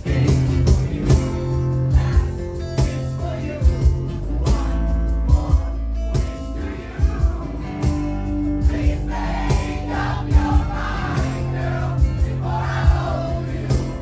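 Acoustic rock band playing live: strummed acoustic guitars with a male voice singing, louder and more prominent in the second half.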